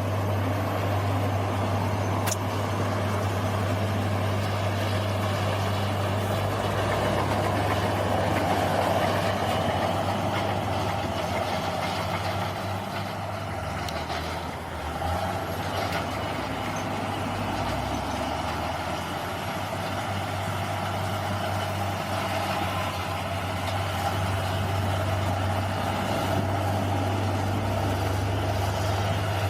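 Bulldozer's diesel engine running steadily with a low drone, its level dipping briefly about halfway through before picking up again.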